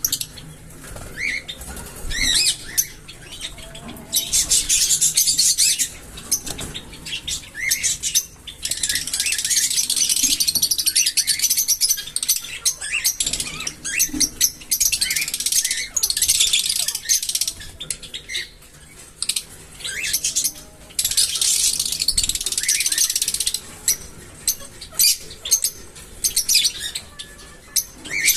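A group of small parrots chattering, in dense high-pitched stretches of chirping a few seconds long, with scattered single chirps in between.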